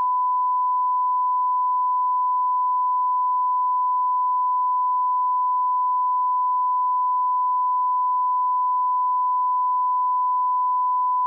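Steady 1 kHz sine-wave line-up tone at −18 dB, a single pure unbroken pitch used as a reference level for audio calibration.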